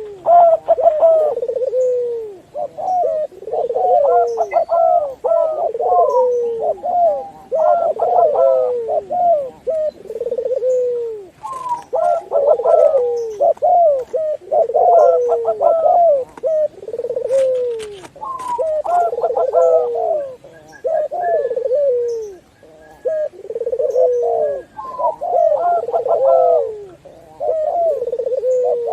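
Several doves cooing over one another, a mix of zebra doves, spotted doves and Barbary doves, with phrase after phrase of low, falling coos overlapping every second or two.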